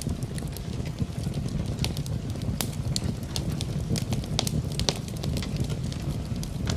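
Wood fire in a fireplace crackling, with frequent sharp pops and snaps over a steady low rumble, mixed with steady rain.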